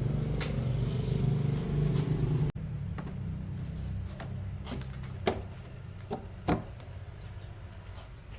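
A motor running steadily, louder at first, then cut to a quieter run, with several sharp knocks near the middle.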